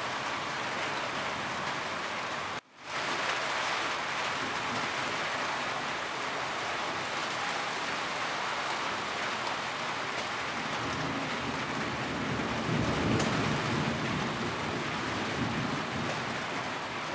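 Steady rain falling on a roof, an even hiss of drops, cut off for a split second about three seconds in. In the second half a low rumble of distant thunder swells under the rain and fades.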